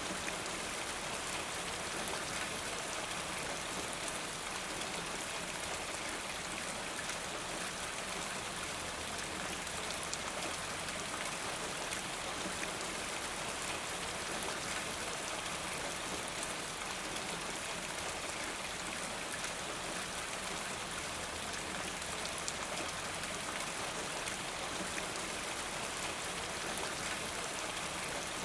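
Steady rain: an even hiss of falling rain with scattered individual drops ticking.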